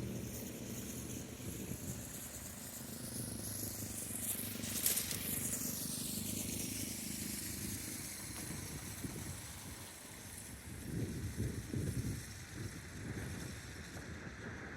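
Freight train rumbling by, with a steady low diesel drone and a brief rising-then-falling swish about five seconds in.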